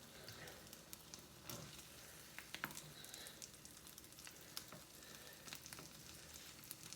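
Omelette frying in a pan: a faint, steady sizzle with scattered small crackles and pops.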